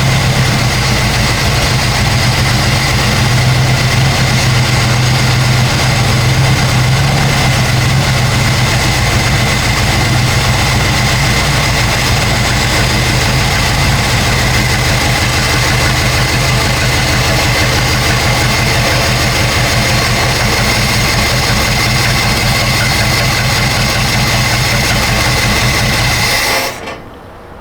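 Old Chevrolet C10 pickup's 350 small-block V8 running steadily, then shutting off near the end.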